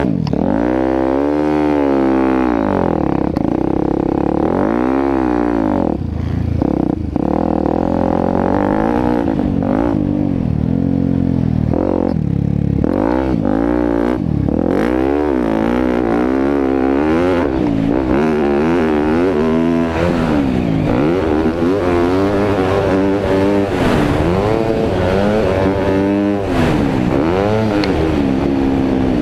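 Motocross dirt bike engine revving hard and easing off over and over, its pitch climbing and dropping with each burst of throttle and gear change, as in riding a track.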